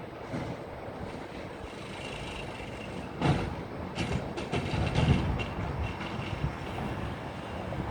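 Garbage truck running with a low engine rumble. A sudden loud clank comes about three seconds in, followed by several more knocks.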